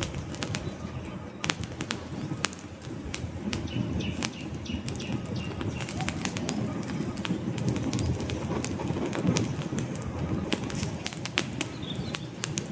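Wood fire in a fireplace crackling, with frequent sharp pops over a steady low rumble of the burning logs.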